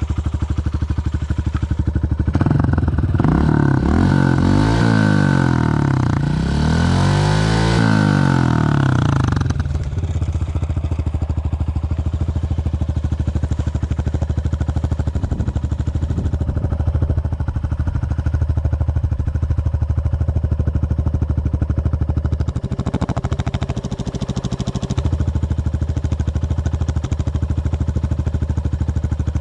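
Dirt bike engine revving, rising and falling in pitch twice in the first third, then running steadily at low revs.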